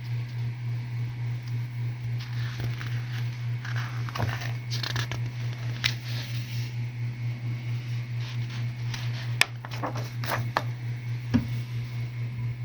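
Rustling and crinkling of large paper calendar pages being handled and turned, with a few sharp clicks, over a steady low hum.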